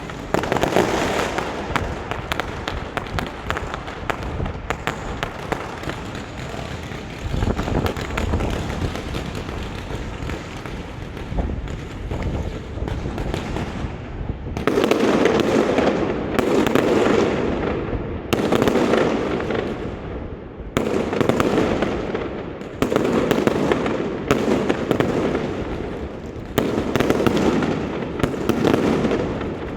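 Fireworks display: dense crackling with many quick pops through the first half. From about halfway, a run of loud bursts about every two seconds, each fading off after it.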